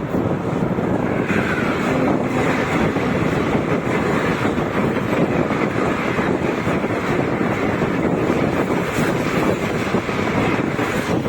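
Steady rumble and rush of a passenger train running, heard from on board, with wind buffeting the microphone.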